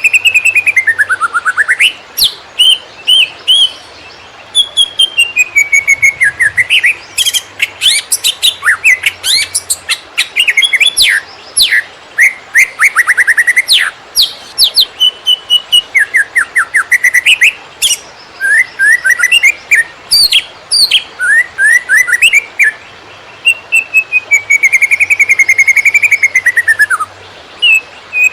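Green leafbird (cucak ijo) singing a long, fast, choppy 'konslet' song: clear whistled phrases gliding up and down, broken by quick rattling trills and sharp chips, with only short pauses between phrases.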